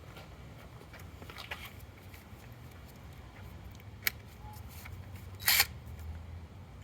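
Light clicks of tools being handled at the engine, a sharp click about four seconds in, and a brief loud burst about a second later, over a low steady hum.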